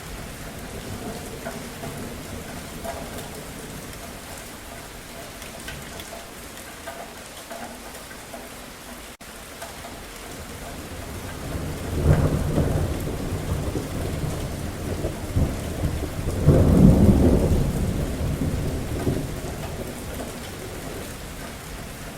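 Steady rain falling, with a sudden rumble of thunder a little past the middle and a louder peal a few seconds later that dies away before the end.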